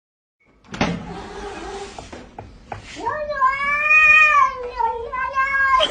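An animal's long drawn-out call lasting about three seconds, rising and then falling in pitch. It comes after about a second of hissy noise and a few clicks.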